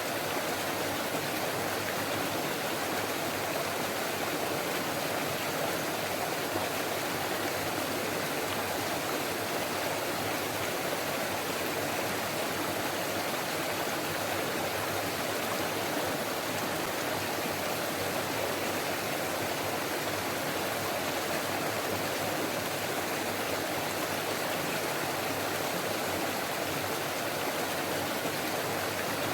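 Forest stream running over rocks: a steady babble of flowing water, even throughout.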